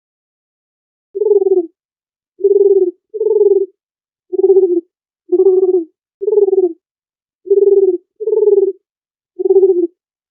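Dove cooing: nine short, low coos about half a second each, some in close pairs, starting about a second in.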